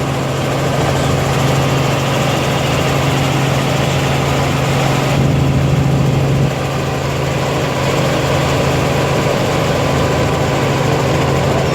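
Helicopter in flight: a loud, steady engine and rotor drone with a strong low hum, which eases a little about six and a half seconds in.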